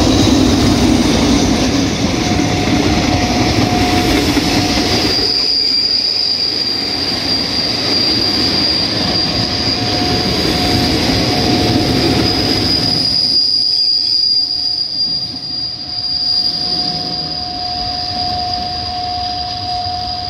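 Alsthom diesel-electric locomotive 4418, fitted with a Pielstick engine, passes close by with its engine rumbling, and its passenger coaches follow. From about five seconds in, a steady high squeal from the train's running gear carries on as the train slows to stop at the halt. The rumble fades at about thirteen seconds, leaving the squeal.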